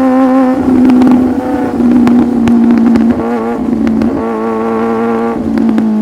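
Sport motorcycle engine running at fairly steady revs under way, its note holding with a few small dips in pitch.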